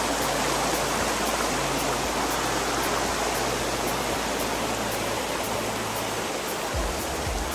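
Mountain river water rushing over rocks, a steady, full, loud noise.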